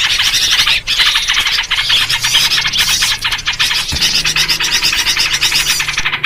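Dense, continuous chorus of many small birds chattering and scolding over one another: a noisy mixed-flock lure recording in its trucuk (yellow-vented bulbul) version, meant to draw in small birds.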